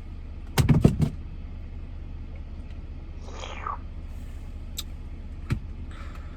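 A car's engine hums low and steady, heard from inside the car. Several knocks come in quick succession about half a second in, then a brief swish and a couple of single clicks.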